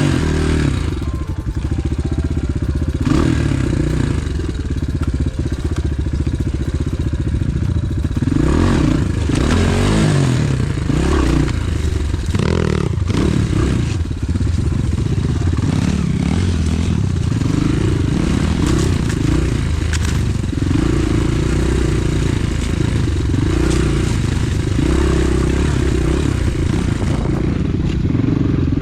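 Pit bike engine running continuously on a forest trail, revs rising and falling as it rides. Scattered knocks and clatter run through it.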